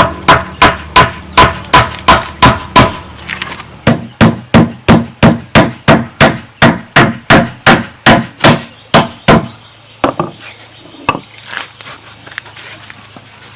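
Repeated strikes on bamboo or wood, about three a second in a steady rhythm, with a short break near a third of the way in. The run stops after about nine and a half seconds, and a few scattered knocks follow.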